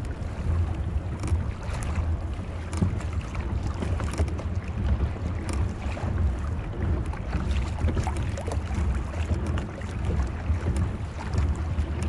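Wind rumbling on the microphone over water splashing around a kayak on the sea, with scattered sharp clicks and knocks.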